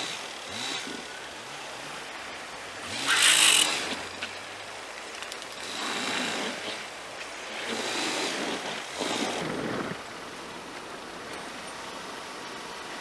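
Car engine revving in repeated surges while the car is rocked out of deep snow, each rev with a rushing noise of tyres churning snow; the loudest surge comes about three seconds in. After about ten seconds it settles back to a steady idle.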